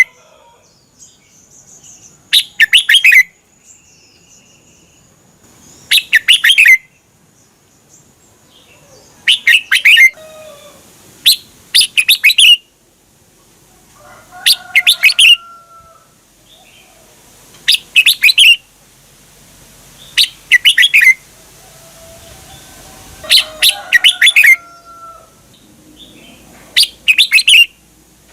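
Red-whiskered bulbul singing short, loud, quick song phrases about every three seconds, some given twice in a row, with softer whistled calls between them.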